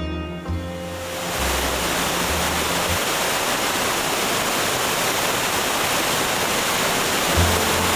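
Steady rushing water of a waterfall, an even hiss. Background music fades out over the first seconds and comes back near the end.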